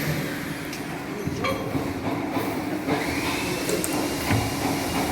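Steady mechanical hum of background machinery, with a few light sharp metallic clicks scattered through it.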